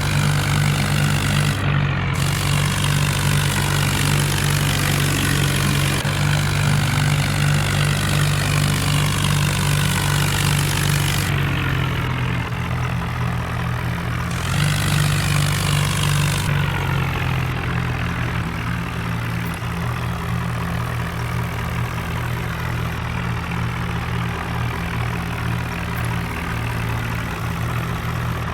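Farm tractor diesel engines running steadily at high power in a tractor tug-of-war, with a broad rushing noise over the engine hum. The sound changes abruptly several times.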